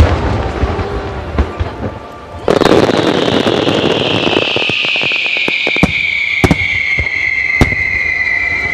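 Large fireworks starmine going off: heavy booms, then from about two and a half seconds in a dense roar of bursts with sharp cracks scattered through it. Over this runs a high hiss that slowly falls in pitch.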